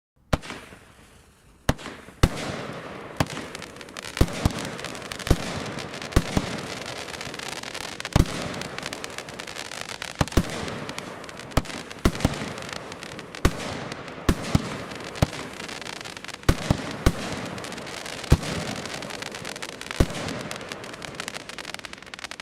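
A 30 mm consumer firework cake (Blackboxx 'Roter Drache') firing its shots in turn: a string of sharp bangs about every second, with a steady crackle and fizz of crackling silver palms and strobing stars between them.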